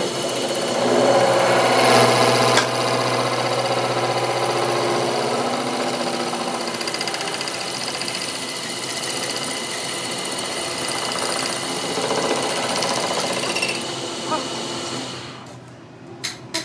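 A workshop machine tool running steadily with a mechanical hum, dying away about fifteen seconds in, followed by a few sharp clicks.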